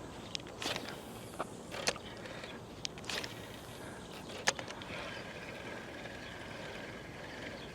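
Fishing tackle being handled: scattered sharp clicks and knocks, then from about five seconds in a faint steady whir of a fishing reel winding in line on a lure retrieve.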